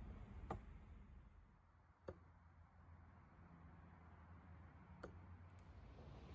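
Four faint, sharp clicks at uneven intervals over a quiet background.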